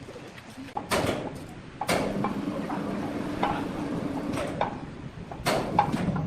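Several loud knocks and bangs of heavy timber or machinery. From about two seconds in to about five seconds a machine hums steadily.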